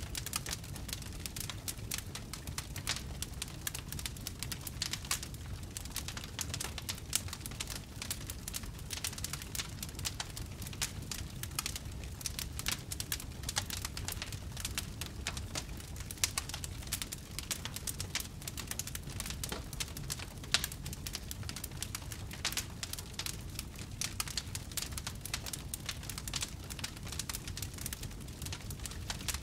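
Wood logs burning in a fireplace, crackling and popping: a dense run of small irregular snaps over a low steady rumble, with a couple of sharper pops past the middle.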